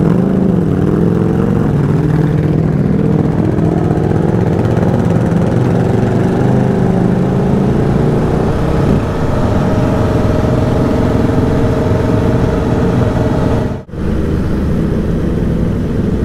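Motorcycle engine running on the move, its pitch rising gradually as the bike accelerates and then holding steady. The sound cuts out briefly about fourteen seconds in.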